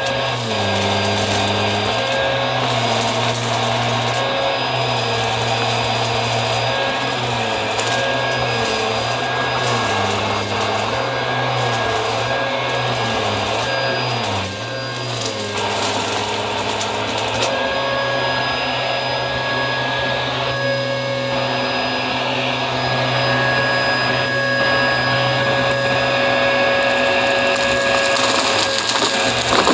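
Upright vacuum cleaner running, its motor pitch wavering as the load changes. A dense, crunchy crackle of debris being sucked up runs over the first half or so, then thins out, leaving the steadier motor hum.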